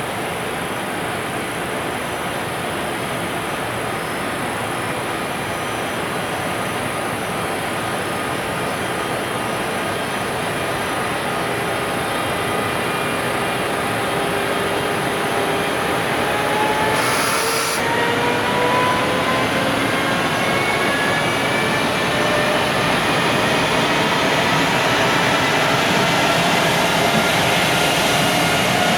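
JR Freight EF510 electric locomotive pulling a container train away from a stop over continuous rolling noise. From about halfway, a whine from its inverter-driven traction motors climbs steadily in pitch and grows louder as the train accelerates.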